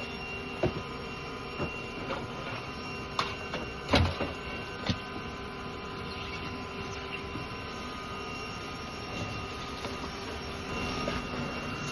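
Steady machine hum from a bee vacuum's motor, with scattered clicks and knocks from working the honeycomb; the loudest knock comes about 4 seconds in.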